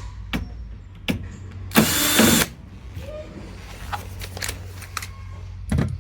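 A power drill runs in one short burst about two seconds in, driving a security screw out of a hot water heater's casing, with a few light clicks and knocks around it.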